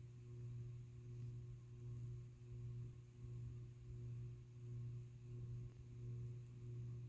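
Hampton Bay Bridgeton ceiling fan running. Its motor gives a steady low electrical hum with a few higher overtones, and the level swells and fades in a regular pulse a little more than once a second.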